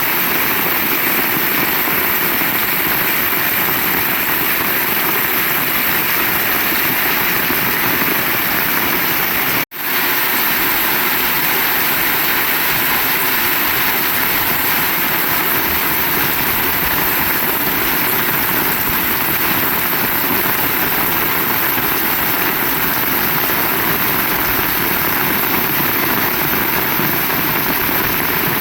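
Heavy rain falling steadily, an even dense hiss with no change in strength. About a third of the way in the sound cuts out for a split second and comes straight back.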